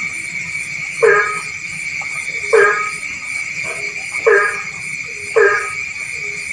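Frog croaking in short, loud calls repeated about every second and a half, four times, over a steady high-pitched background chorus of night calls.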